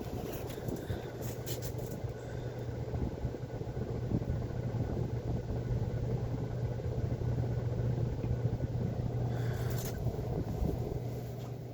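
Antique Emerson Longnose ceiling fan running: a steady low motor hum under a constant rush of air from the blades.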